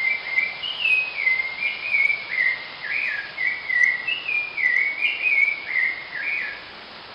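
A bird singing: quick runs of whistled notes stepping down in pitch, repeated again and again, stopping about half a second before the end. Under it, a steady rushing hiss of falling water.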